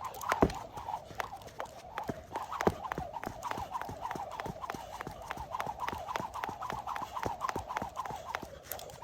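Jump rope skipping at a fast, even pace: the rope slaps the floor several times a second over a steady whir, dying away near the end.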